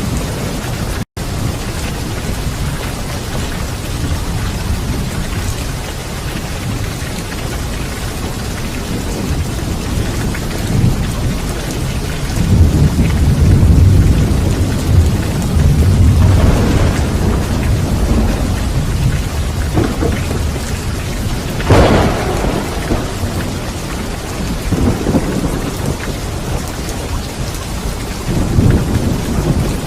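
Steady heavy rain with rolling thunder: low rumbles build and swell in the middle, and a sharper thunderclap comes about two-thirds of the way through. The sound cuts out for an instant about a second in.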